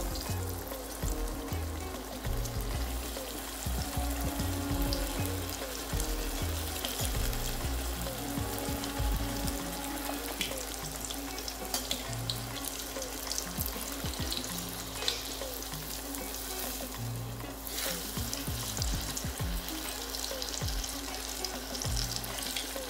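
Breaded chicken patties frying in hot oil: a steady sizzle with fine crackling and popping.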